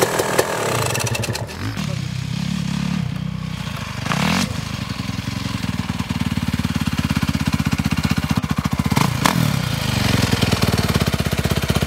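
Motocross motorcycle engine, revving high at first, then dropping back to a low idle with a steady, even pulse, blipped briefly twice.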